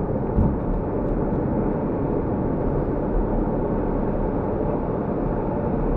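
Steady rushing of surf and water against a GoPro in its housing, heaviest in the low range, with one sharp thump about half a second in.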